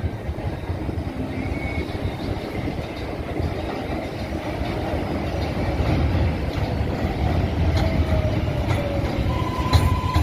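An R188 subway train running on the 7 line's elevated track: steady rumble and wheel noise, with a whine gliding down in pitch over a few seconds, then a steady high tone and a few sharp clicks near the end.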